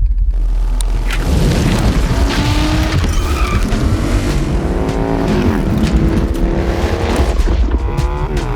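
Harley-Davidson motorcycle engine revving and accelerating hard, its pitch rising in several sweeps.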